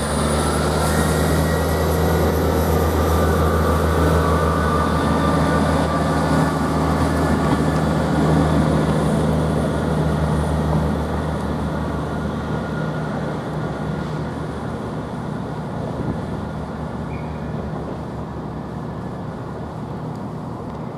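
Class 158 diesel multiple unit pulling away from the platform, its underfloor diesel engines working with a steady low note and a high rising whine near the start. The engine note fades out about halfway through as the train moves off, leaving fading rail noise.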